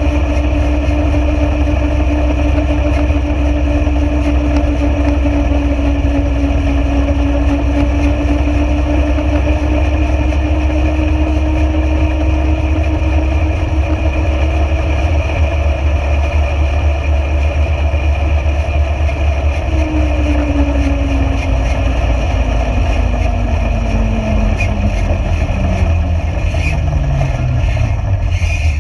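Motor vehicle engine running steadily under a heavy low rumble. In the last third, an engine's pitch slides steadily down as it slows.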